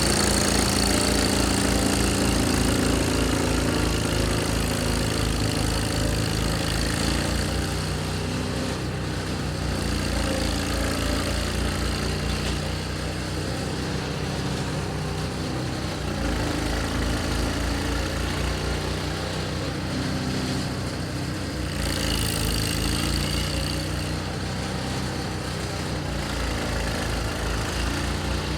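Snowblower's 6.5 hp, 208 cc single-cylinder engine running steadily, its pitch and loudness easing and swelling a little as it works.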